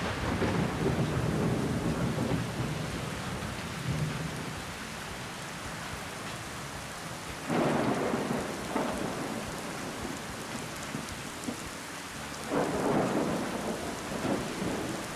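Steady rain falling with thunder: a low rumble of thunder in the first couple of seconds, then louder swells about seven and a half and twelve and a half seconds in.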